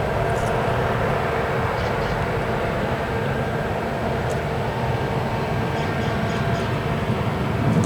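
Engine running at a steady speed: a constant drone with a few fixed tones over a rumbling low end.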